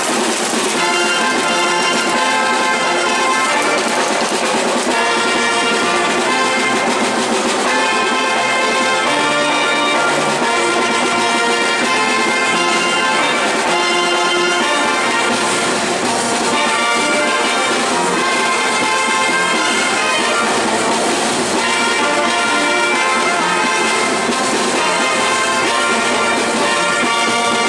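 Brass band playing a marinera, trumpets and trombones carrying the melody, loud and continuous.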